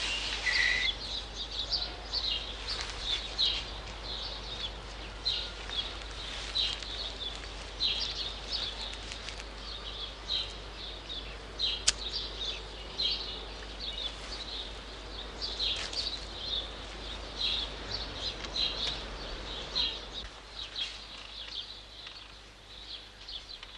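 Small birds chirping outdoors: short, high chirps repeating irregularly, over a steady low hum. A single sharp click about halfway through.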